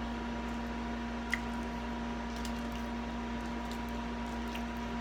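Steady background hum, with a few faint short clicks from a person chewing soft sweet potatoes.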